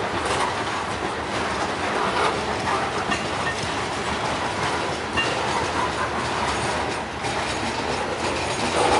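Freight train's covered hopper cars rolling past at close range: a steady rolling rumble of steel wheels on rail with faint clicks, and a couple of brief high wheel squeaks.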